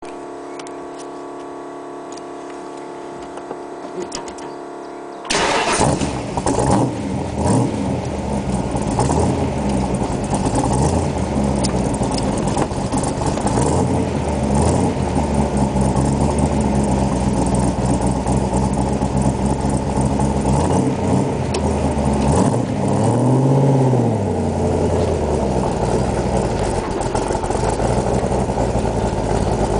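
Superformance Cobra's 500 hp V8 starting: after about five seconds of a steady hum, the engine catches suddenly and loudly and is blipped a few times. It then runs at a lumpy idle, with one clear rev up and back down a little before the end.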